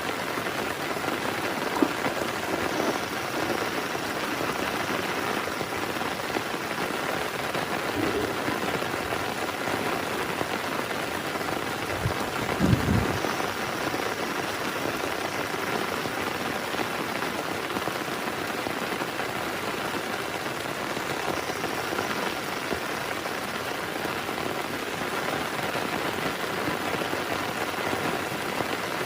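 Heavy rain falling steadily, with a brief low thump about halfway through.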